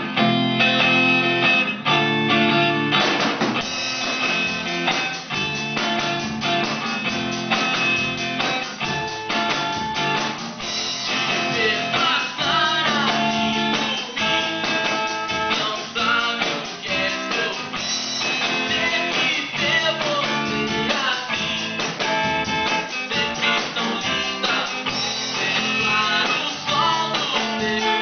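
Amateur band jamming: guitars playing chords, with a drum kit joining in a steady beat about three seconds in.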